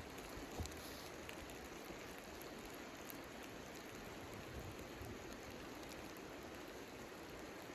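Steady hiss of precipitation pattering on a surface, with scattered faint ticks and one sharper tap about half a second in.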